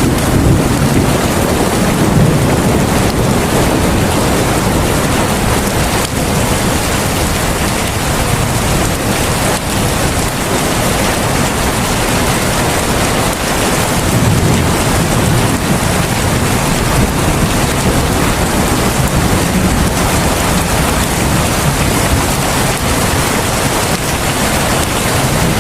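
Heavy rain falling steadily in a dense, even hiss, with a low rumble swelling near the start and again about halfway through.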